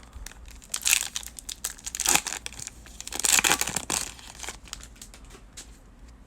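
A foil trading-card pack wrapper being torn open and crinkled by hand, in irregular crackling bursts with the loudest about 3 to 4 seconds in.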